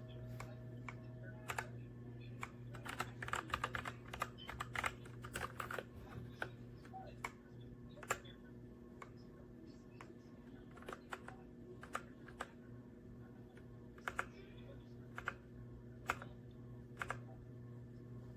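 Keystrokes on a Redragon K617 Fizz 60% mechanical keyboard: a quick burst of typing a few seconds in, then single key presses about a second apart, over a faint steady hum.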